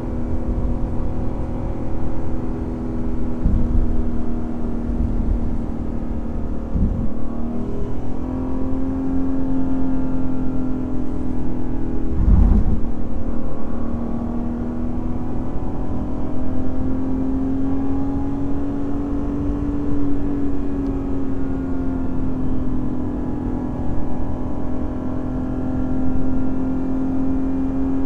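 Lexus IS500 F Sport Performance's naturally aspirated 5-litre V8 running at a fairly steady engine speed while driving, its note drifting gently up and down and rising a little near the end. A brief thump comes about twelve seconds in.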